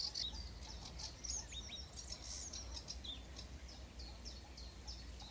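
Reed warbler singing from the reeds: a faint run of short, high, repeated chirping notes in an even, mechanical rhythm, typical of a male's territorial song in spring. A low wind rumble lies underneath.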